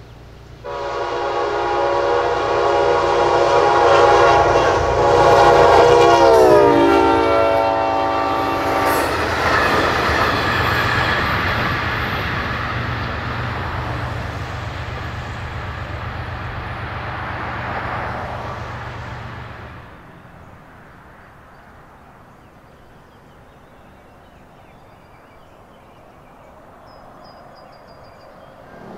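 Amtrak passenger train sounding a chord horn as it rushes past, the horn's pitch dropping as the train goes by, until it stops after about nine seconds. The rumble and wheel noise of the passing cars follows and fades out about twenty seconds in.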